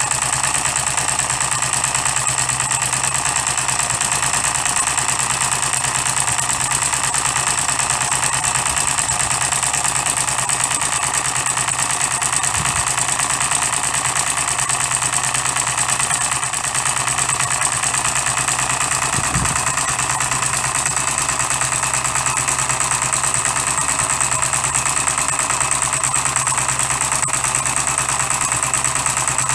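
Custom-built 12cc direct-injection model diesel engine running steadily at an even speed.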